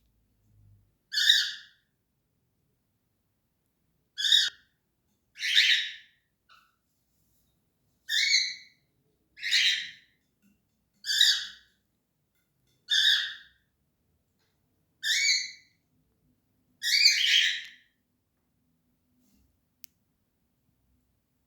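A cockatiel calling over and over: about nine loud, harsh, rasping calls, each under a second long, every two seconds or so.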